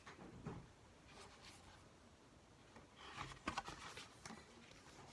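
Faint rustling and soft taps of a paper picture book being handled as a page is turned, loudest about three and a half seconds in.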